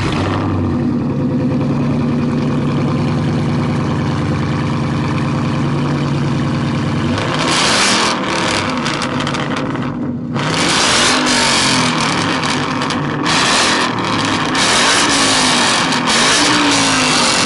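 Loud V8 muscle car idling steadily, then revved repeatedly from about seven seconds in, each blip swelling and falling back.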